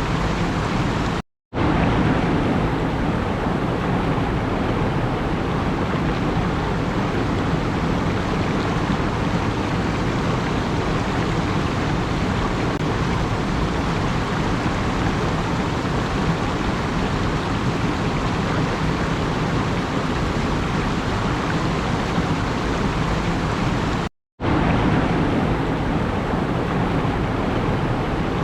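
Steady rushing noise with no rise and fall, broken twice by a sudden drop to silence lasting a fraction of a second: once about a second in and once near the end.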